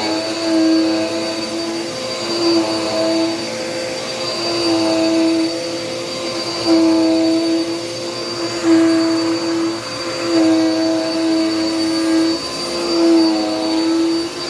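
Dirt Devil Power Max vacuum cleaner running: a steady motor hum with a thin high whine over it, its loudness swelling and dipping every second or two.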